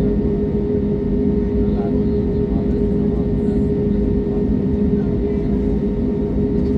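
Steady drone of an airliner's jet engines and airflow heard inside the passenger cabin, a dense low rumble with a constant hum running through it.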